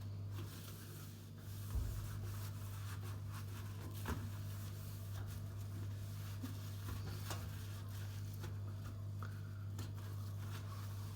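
Soft rubbing and handling sounds with a few light knocks, over a steady low hum.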